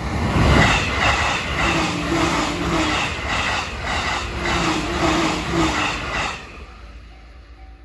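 JR East E531 series electric train passing at speed (about 127 km/h), its wheels clattering over the rail joints in an even beat of about two a second. The noise drops away about six seconds in as the last car clears, leaving the level-crossing warning bell ringing faintly in a quick repeating beat.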